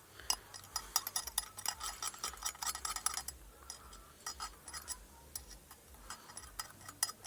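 Toothbrush scrubbing a hydraulic valve lifter covered in cleaning foam: quick scratchy strokes, dense for about three seconds, then sparser.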